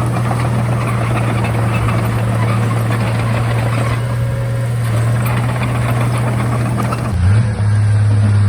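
Komatsu D31A bulldozer's diesel engine running steadily with a low drone, with a busy rattling noise over it. About seven seconds in, the engine note briefly wavers and dips.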